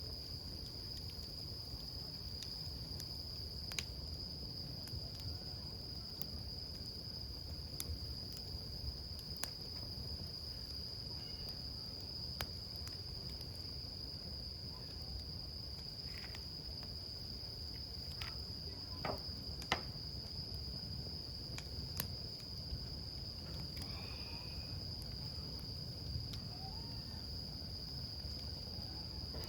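Wood campfire crackling, with scattered sharp pops, the loudest one about two-thirds of the way through. A steady, high-pitched insect trill runs underneath.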